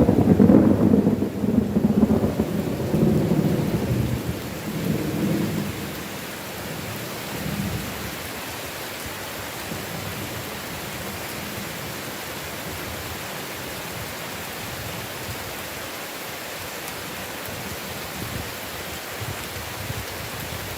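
A thunderclap opens into a low rolling rumble that dies away over about six seconds, over heavy rain falling steadily; after the thunder only the even hiss of rain remains.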